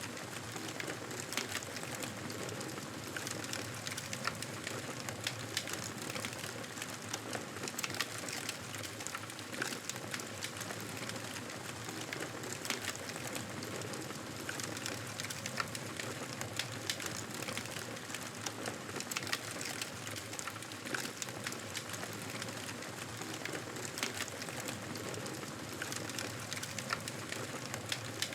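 Wood fire crackling steadily: a soft hiss with frequent small, irregular pops.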